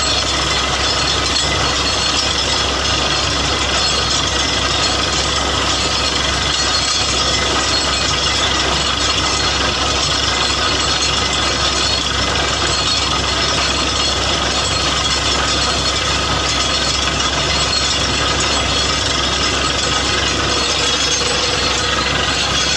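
Borewell drilling rig running steadily and loudly, with a constant machine whine over a dense noise.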